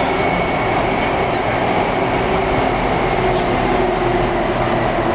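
Taipei Metro C301 train running at speed: a steady, even rumble of wheels and running gear with a faint steady whine on top.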